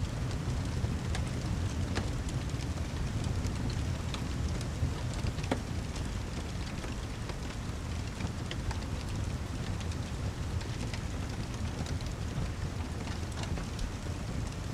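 Rain ambience mixed with a fireplace: a steady heavy rain with a deep low rumble, and scattered sharp crackles and pops throughout.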